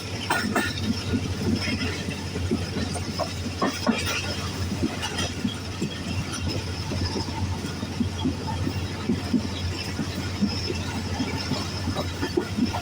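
Passenger train running on the rails: a steady low rumble with frequent irregular rattles and knocks.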